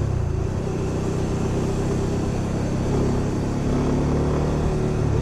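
Honda Winner 150 motorbike's single-cylinder engine running steadily, its low hum shifting slightly in pitch, over a constant hiss of noise.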